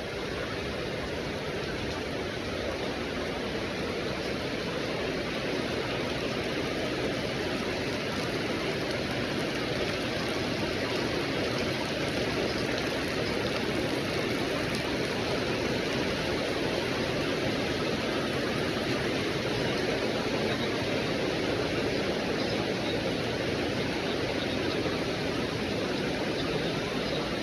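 Rain falling steadily, an even rushing hiss of water without breaks.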